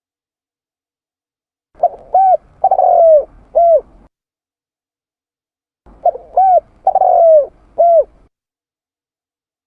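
Spotted dove (tekukur) cooing: two phrases about four seconds apart, each made of short coos around one longer coo that falls in pitch.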